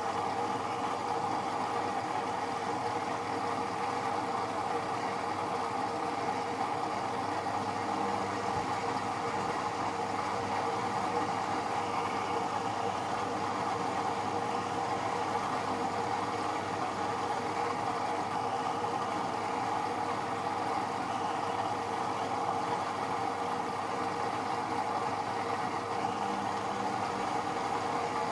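AEG Electrolux Lavamat L74810 washing machine running steadily, an even mechanical hum with constant tones that holds without a break or change.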